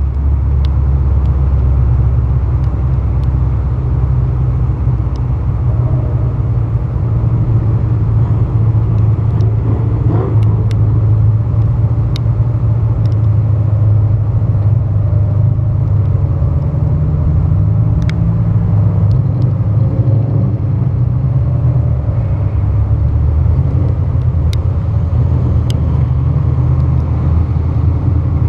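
Car engine running at low speed with a steady low rumble, picked up by a microphone mounted on the hood, as the car cruises slowly after its hot laps.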